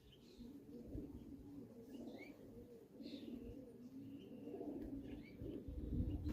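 Racing pigeons cooing, a faint low warbling coo that goes on throughout, with a few short high chirps of small birds above it. A low rumble builds near the end.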